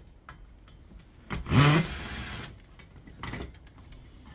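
Cordless drill-driver spinning up for about a second, its whine rising in pitch, as screws are driven out of the aluminium heatsink on an induction hob's circuit board; a shorter second burst follows near the end.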